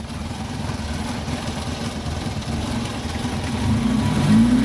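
Premier Padmini car engine and exhaust idling with a steady low note, then revved briefly near the end, the pitch rising and easing back.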